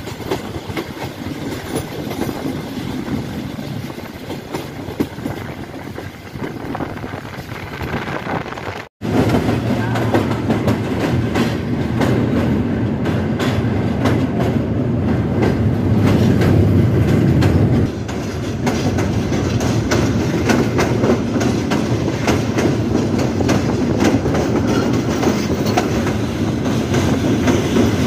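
Passenger train running at speed, its wheels clattering over the rail joints, heard from an open carriage window. The sound cuts out for an instant about nine seconds in and comes back louder.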